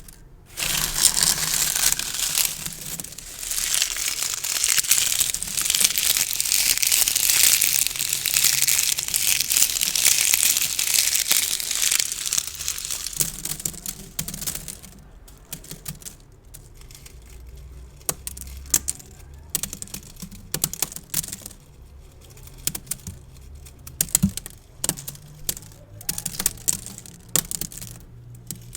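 Gift bows being handled and crinkled close to the microphone: dense crinkling for roughly the first twelve seconds, then lighter scattered taps and clicks.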